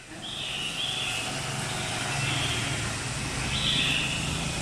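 A motor vehicle's engine rumbling steadily, with a few faint red-whiskered bulbul calls over it.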